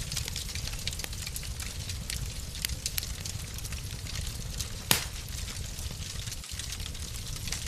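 Wood fire crackling in a fireplace: many small, irregular pops and one sharper, louder pop about five seconds in, over a steady low rumble.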